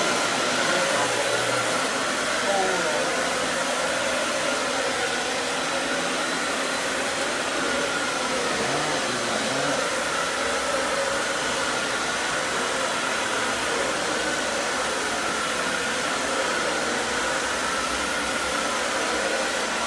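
Vacuum cleaner running steadily: a constant motor whine that wavers slightly in pitch over an even rush of air.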